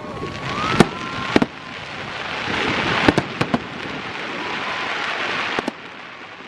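Aerial fireworks bursting: several sharp booms, about a second in and again around three seconds, over a dense rain-like hiss that dies away near the end.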